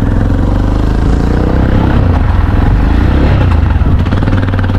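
Motorcycle engine running as the bike is ridden, with a steady low rumble.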